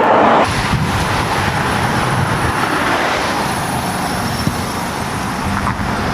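Steady road and wind noise of a Volkswagen Golf Mk4 coasting with its engine dead after it blew up, with a louder rush in the first half second.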